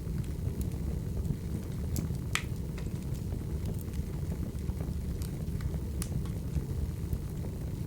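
Recorded crackling wood fire: a steady low rumble with irregular snaps and pops scattered throughout.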